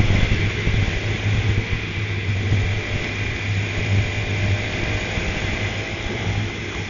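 Go-kart engine running at a fairly even level under a dense haze of noise, its pitch wavering slightly.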